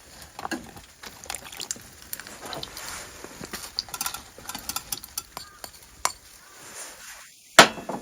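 Cooking in a pan: a utensil stirring and scraping food, with irregular small clicks and light sizzling, and a sharp loud click near the end.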